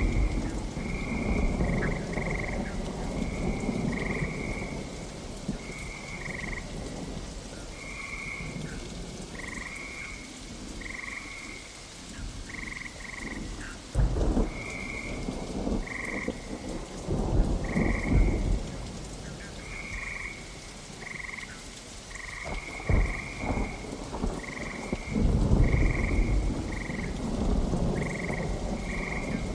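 Steady rain with rolling thunder that swells at the start, a few times in the middle and again near the end. Short high chirps repeat over it about once a second, often in pairs.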